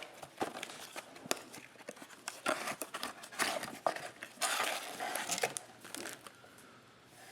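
A cardboard blaster box and foil trading-card pack wrappers being torn open and handled: a run of crinkling, tearing rustles and sharp clicks, busiest in the middle.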